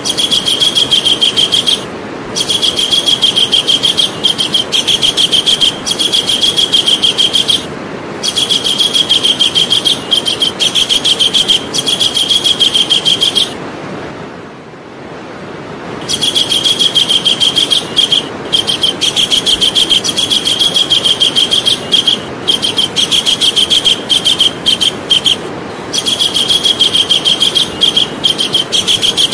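Javan kingfisher calling: long trains of rapid, high, repeated notes, broken by brief pauses and by one longer pause of about two seconds midway.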